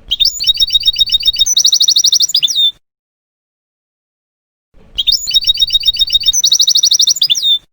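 European goldfinch song, heard twice as the same phrase. Each phrase is a fast trill of high notes that quickens near its end and finishes with a short falling note, with about two seconds of silence between the two.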